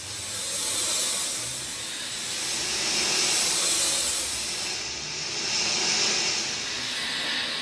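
Steady rainfall hissing, its loudness swelling and easing every two to three seconds.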